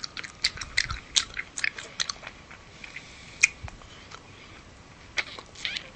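Crisp crackling of a fresh lahmacun flatbread being bitten and chewed: a dense run of small crunchy snaps in the first two seconds, then a few scattered ones.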